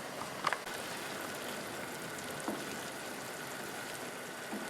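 Crushed-tomato sauce simmering in a pan: a steady hiss with a few faint clicks.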